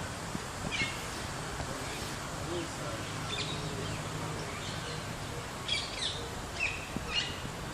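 Birds chirping: short, scattered high calls about once a second or two, several close together near the end, over steady background noise.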